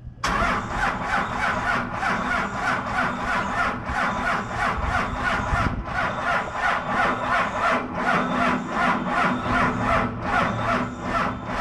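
Dodge Cummins inline-six diesel turning over on its starter motor, a steady whine with about four compression pulses a second, cranking for around twelve seconds without catching. It is too cold, with no grid heater and on weak batteries boosted by a jump box.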